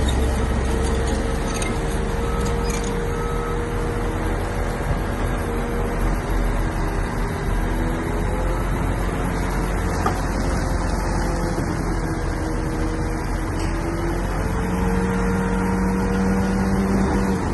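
Shantui bulldozer's diesel engine running steadily under working load, its pitch rising and falling a little as the load changes.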